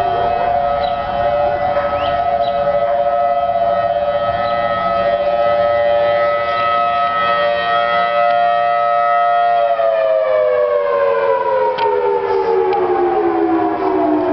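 Outdoor tornado warning siren holding a steady wail, then, about ten seconds in, winding down with its pitch falling steadily.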